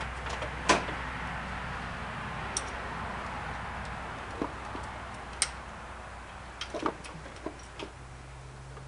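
Irregular metallic clicks and clinks of a ratchet wrench working the top bell housing bolts loose, over a steady low hum. The sharpest click comes just under a second in, and a quick cluster comes later.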